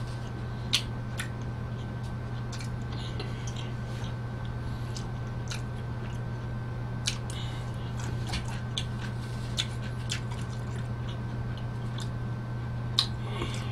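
A man chewing a mouthful of thin-crust pizza close to the microphone, with scattered wet mouth clicks and smacks over a steady low hum.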